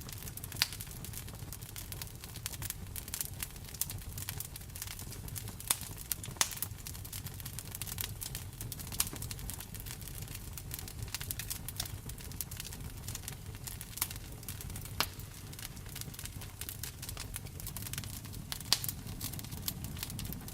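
Wood fire crackling, with many small snaps and several louder pops, over a steady hiss of rain and a low rumble.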